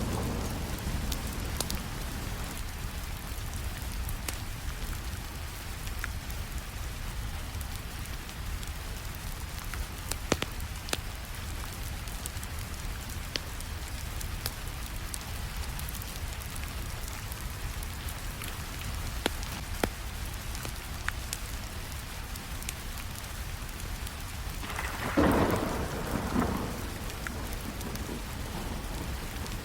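Steady rainfall with the sharp snaps of a crackling wood fire scattered through it, and a louder swell of sound about 25 seconds in.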